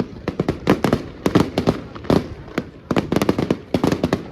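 Firecrackers going off in a fast, irregular string of sharp, loud bangs, several a second.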